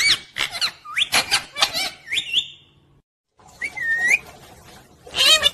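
Pet parrot whistling and calling: a quick run of short, arching whistled notes, a brief break, then a single whistle about four seconds in and another call at the end.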